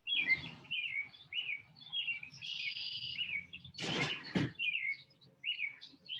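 Birds chirping: a run of short, repeated calls that sweep downward, going on throughout. A brief, louder noise cuts in about four seconds in.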